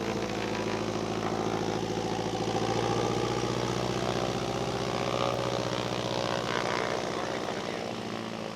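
Light propeller airplane's piston engine running steadily at low power, with an even, unchanging drone.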